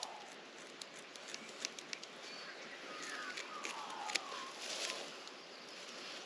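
Scattered sharp snips and rustles as plastic bird netting is cut with scissors and pulled away, the loudest a little after four seconds in. A bird gives a descending call about three seconds in.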